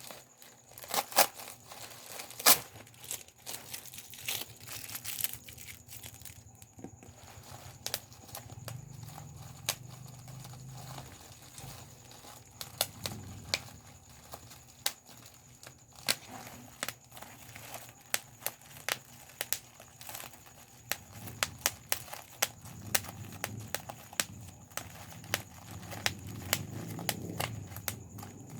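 Bubble wrap being popped by hand: sharp, irregular pops over the crinkling of the plastic sheet, with several loud pops in the first few seconds and a quicker run of pops in the second half.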